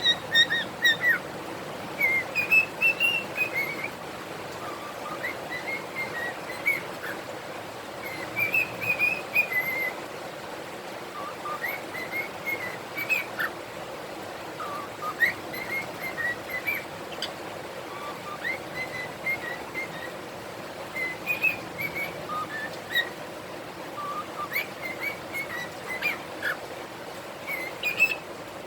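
Pet cockatiels whistling and singing: short warbling phrases that rise and fall, repeated every second or two, with a few brief chirps between them.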